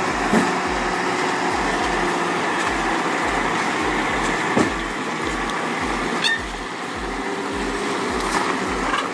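Heavy timber truck running on a steep downhill haul, its engine sound steady, with a few short sharp clicks or knocks about half a second in, near the middle and at about two thirds of the way through.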